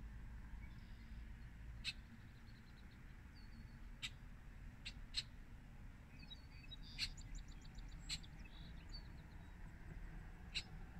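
Birds calling faintly: sharp single chip notes every second or two, with a quick high trill about six to eight seconds in, over a low steady rumble.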